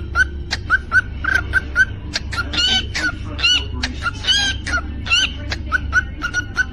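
Cockatiel chirping in a quick run of short, repeated notes, about three or four a second, with a few longer warbling whistles in the middle. A steady low hum runs underneath.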